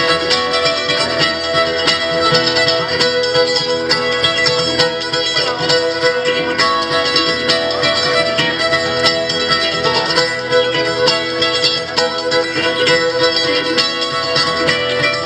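Acoustic string band playing an instrumental passage in a bluegrass style: fiddle over picked and strummed acoustic guitar, closing out a song.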